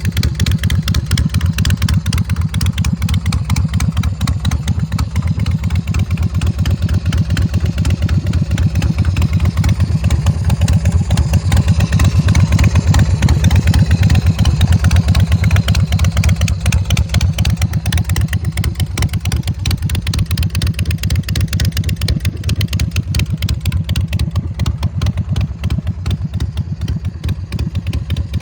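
Big Dog motorcycle's S&S 107 cubic-inch V-twin idling with a steady, rapid pulsing beat. It swells a little louder midway, then settles back.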